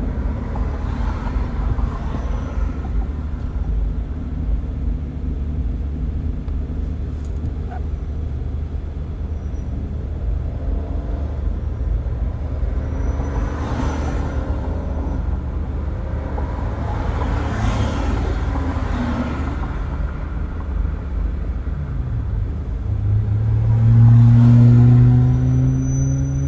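Car driving with its windows open: steady road and tyre rumble, with other vehicles swishing past now and then. Near the end a loud engine hum rises slightly in pitch and is the loudest sound.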